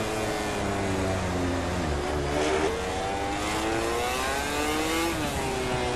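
MotoGP racing motorcycle engines at high revs, the pitch shifting in steps, then climbing steadily for a couple of seconds and falling off sharply about five seconds in.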